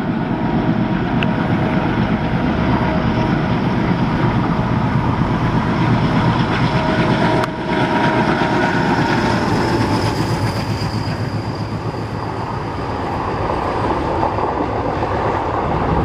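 A train running past, a steady rumble of wheels on the rails throughout, with faint steady tones over it.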